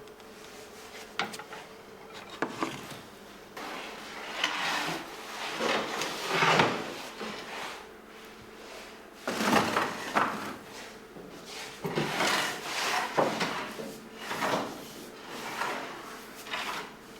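Wood sliding and scraping over a hard surface in a series of strokes of about a second each, with a few sharp knocks in the first three seconds.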